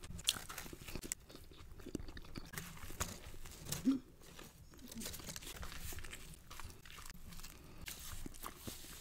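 Close-miked biting and chewing of a crisp, crusty piece of food, with irregular crunches throughout; the two loudest bites come just after the start and about four seconds in.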